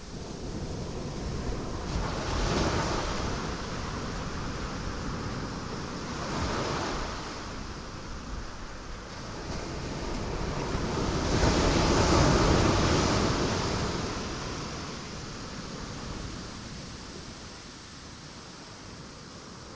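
Ocean waves surging and crashing on rocks, the wash rising and falling: two smaller breakers in the first seconds, then a bigger wave swelling to a crash about twelve seconds in and slowly ebbing away.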